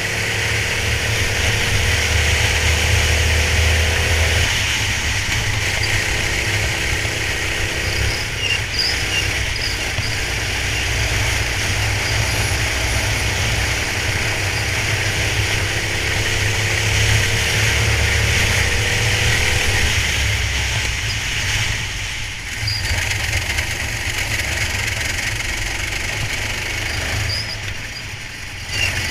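Kart engine heard onboard, its pitch climbing steadily as it accelerates, dropping sharply about four seconds in, then climbing again through a long pull before falling away about two-thirds of the way through, over a steady hiss.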